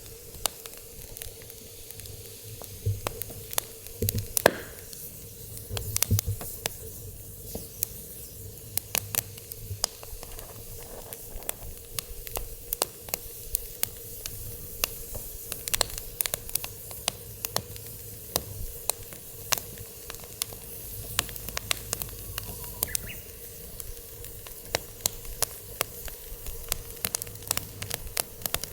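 Firewood burning in a fire pit, crackling with many sharp pops and snaps over a steady hiss, with a faint steady hum underneath.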